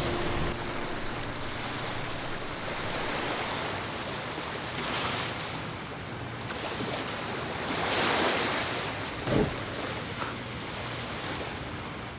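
Sea waves washing onto the shore, swelling and easing, with wind noise on the microphone and a brief thump about nine seconds in.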